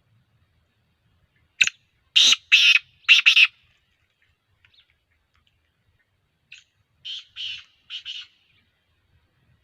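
Black francolin calling: a phrase of five short notes, then a fainter repeat of the same five-note phrase about five seconds later.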